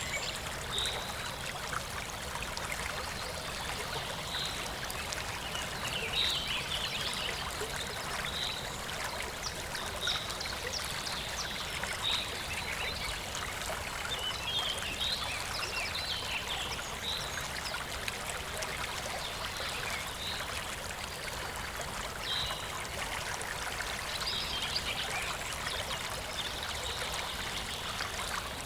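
Stream of clear water flowing steadily, a constant babble with small bright gurgling notes scattered through it.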